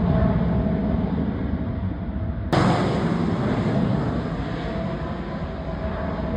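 Jet engine noise of JASDF F-15 fighters passing overhead: a heavy, steady rumble that jumps suddenly louder about two and a half seconds in, then slowly fades.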